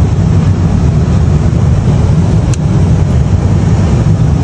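Lennox rooftop HVAC unit running with a steady low rumble, and a single brief click about two and a half seconds in.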